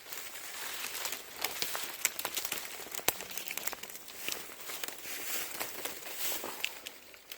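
Footsteps crunching and rustling through dry ground cover, an irregular run of many small crackles and snaps.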